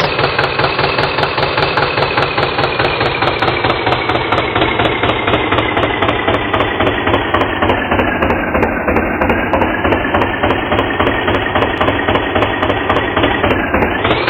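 Tractor engine running with a fast, even chug. Its pitch sinks slowly and then rises again near the end.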